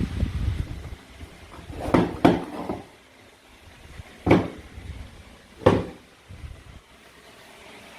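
Toy play food being cut with a toy knife: low handling rubs, then four sharp plastic clacks, two close together about two seconds in, then one each at about four and about six seconds.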